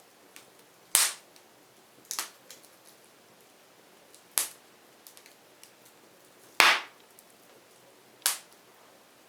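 Burning firewood crackling: five loud sharp pops at uneven intervals, the loudest about two-thirds of the way through, with faint ticks between them.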